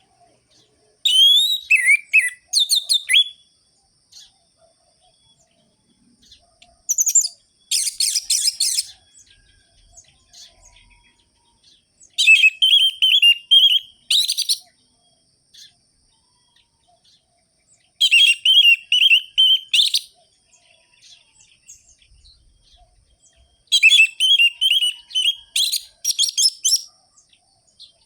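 Orange-headed thrush singing in full voice, in five bursts of rapid, sharp, high notes of two to three seconds each, with short pauses between them.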